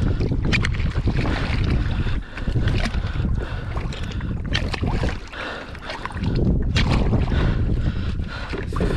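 Wind buffeting the microphone in a steady low rumble, with water splashing around a kayak and a few sharp knocks or splashes.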